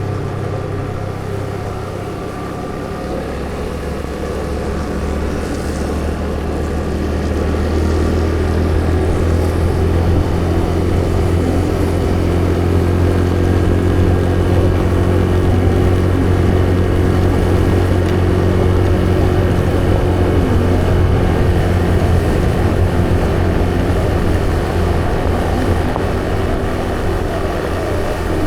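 A vehicle engine running steadily on the move, a low drone with a constant hum, growing louder about seven seconds in and then holding.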